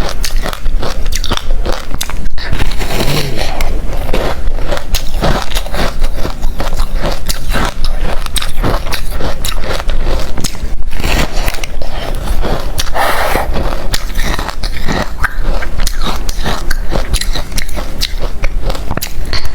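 Close-miked crunching of hard refrozen crushed ice being bitten and chewed, a rapid, continuous run of sharp cracks and crunches.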